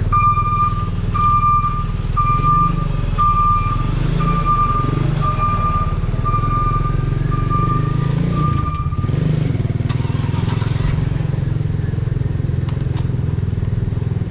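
A 125cc custom motorcycle's engine and exhaust running steadily while riding. A high beep sounds about once a second, nine times, then stops about nine seconds in.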